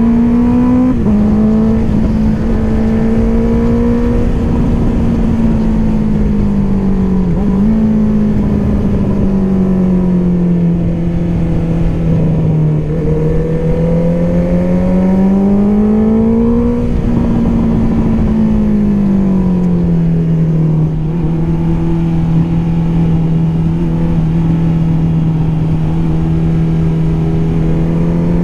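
Honda CBR650R's inline-four engine through an Akrapovic exhaust, pulling at moderate revs under way, its note rising and easing off in slow swells with a couple of brief dips, then holding steady for the last several seconds.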